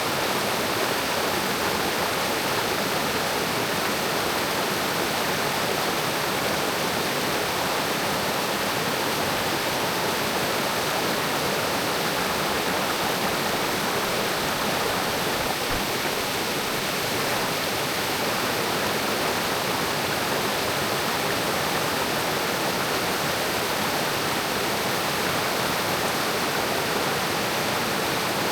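Mountain creek rushing: a steady, even wash of running water.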